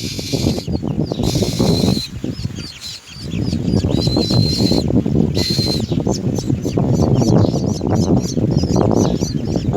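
Common mynas calling: a few short held high notes, then from about six seconds in a rapid run of short high chirps, several a second. Under them runs a loud low rustling.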